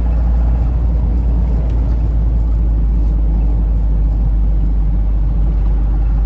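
Steady low drone inside the cab of a Mitsubishi Canter truck on the road: its diesel engine running, with road noise.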